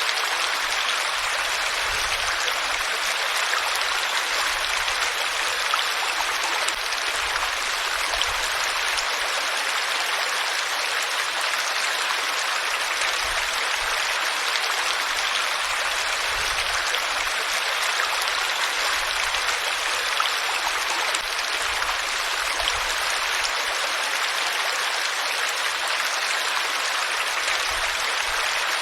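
Flowing water, a steady, even rushing with no breaks or changes.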